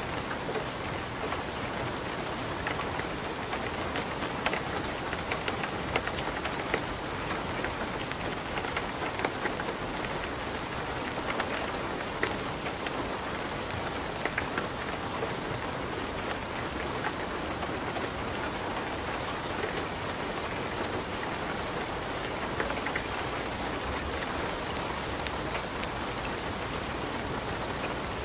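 Wood fire crackling in a fireplace: a steady hiss with scattered sharp pops and snaps, several a second.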